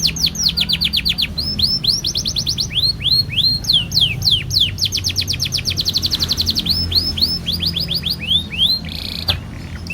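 Domestic canary singing a long continuous song: rapid trills of repeated sweeping whistled notes, changing from one trill to the next every second or so without a break.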